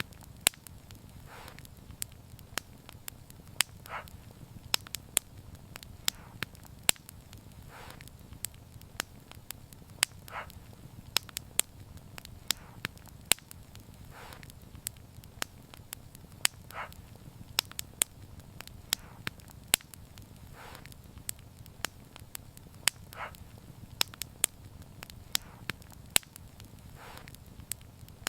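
Wood fire crackling: sharp, irregular pops and snaps, several a second, over a low steady rumble of burning, with softer short hisses every few seconds.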